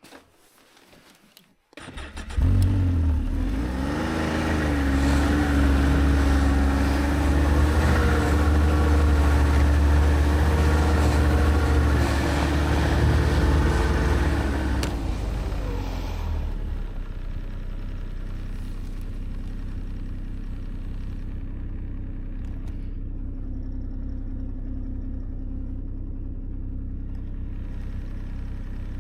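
A motor vehicle engine starts about two seconds in and runs at a high, fast idle. After about thirteen seconds it drops back to a steady, lower idle.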